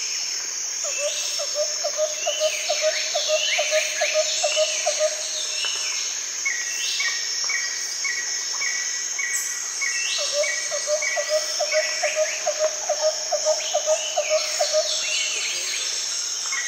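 Forest ambience of birds singing and calling over a steady high insect drone, with a low pulsing trill of about four pulses a second heard twice, several seconds each time.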